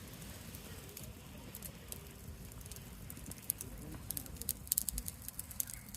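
Wood campfire crackling, with sharp pops that come more often in the second half.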